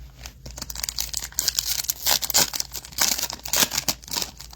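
A foil trading-card pack wrapper crinkling and tearing as it is ripped open, a busy crackle of plastic that starts about half a second in and carries on.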